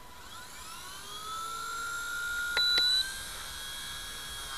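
Blade mCP X micro RC helicopter spooling up: the motor and rotor whine rises over the first second or so and then settles into a steady high whine. About halfway through come two sharp clicks and a short, louder high beep.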